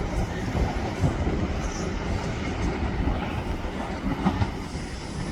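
Train moving on the tracks: a steady rumble with a few scattered clicks from the wheels and rails.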